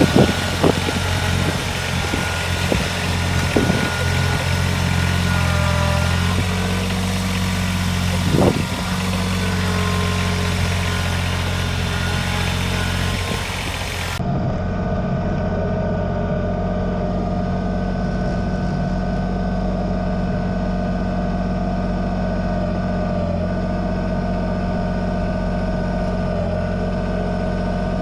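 Kubota BX2380 sub-compact tractor's three-cylinder diesel engine running, with a steel snowplow blade scraping over pavement and a few knocks in the first half. About halfway through the scraping stops abruptly and the engine runs on steadily at idle.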